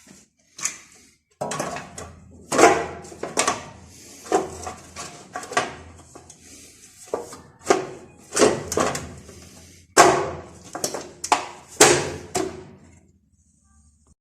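A series of irregular knocks and clatters, several a second at times, over a faint steady low hum.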